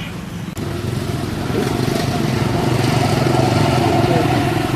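An engine running steadily, low and even, growing louder after an abrupt break about half a second in. A few short, faint squeaks sit over it.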